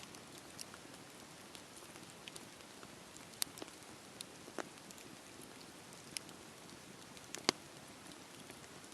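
Wood fire burning with a steady low hiss and scattered sharp crackles and pops, the two loudest about three and a half and seven and a half seconds in.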